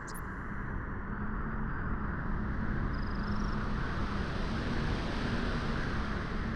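Steady beach wind, a continuous rushing noise that swells a little over the first second or two. A faint short chirp sounds about three seconds in.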